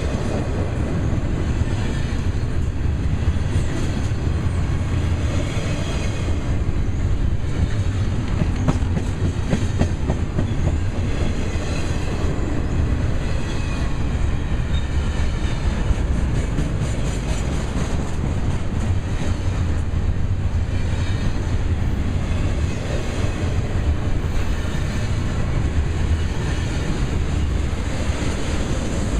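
Double-stack intermodal well cars rolling past: a steady rumble and clatter of steel wheels on the rails.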